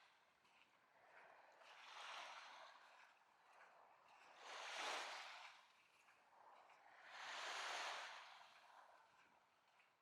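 Small lake waves washing onto a Lake Michigan beach, faint, with three swells of surf about every three seconds, the second and third the loudest.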